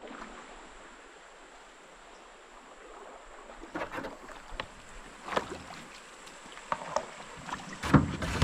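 Canoe on a river: a steady water hiss, then scattered sharp knocks of paddles or gear against the hull that come more often and grow louder toward the end, with wind buffeting the microphone in the last moment.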